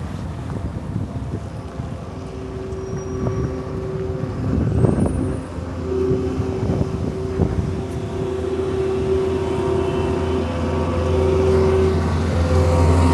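A road vehicle's engine running with a steady low hum and a couple of steady higher tones. It grows louder toward the end. There are two knocks around the middle.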